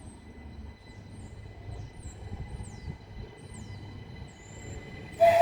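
Southeastern Class 375 Electrostar electric multiple unit running past: a steady low rumble with a faint high whine. A brief, loud, sharp sound comes near the end.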